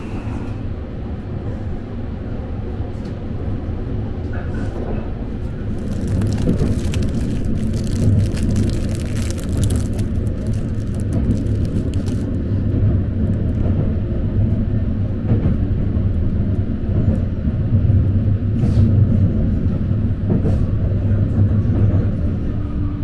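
Sunrise Izumo sleeper train, a 285 series electric multiple unit, running on the rails: a steady low rumble heard from inside a compartment, getting louder over the first six seconds and then holding.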